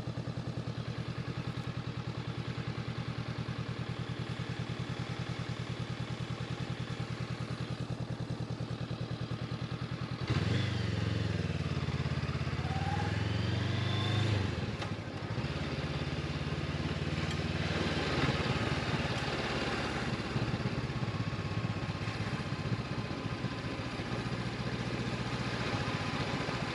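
Honda CB500X parallel-twin motorcycle engine idling steadily, then about ten seconds in the throttle opens and it revs up and down as the bike pulls away and runs on under load.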